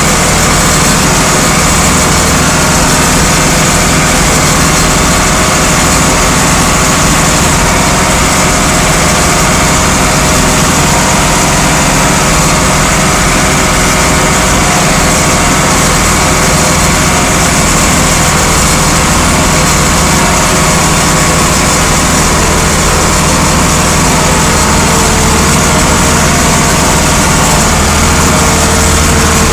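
Vintage tractor engine running steadily and loud, with a deep even drone that does not change in speed.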